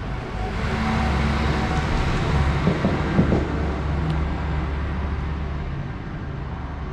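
A motor vehicle passing by, its engine rumble and road noise swelling over about a second, holding, then fading away, with a few brief knocks in the middle.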